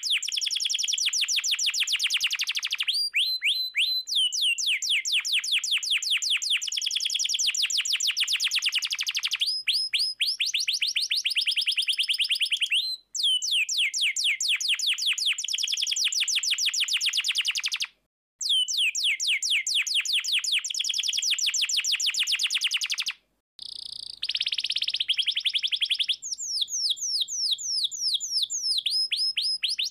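Canary singing: long, fast trills of repeated sweeping notes, each run switching to a new note pattern, broken by three brief silences.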